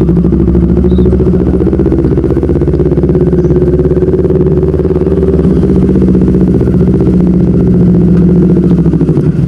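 Motorcycle engine running at a steady speed while riding, with a slight change in engine pitch about halfway through.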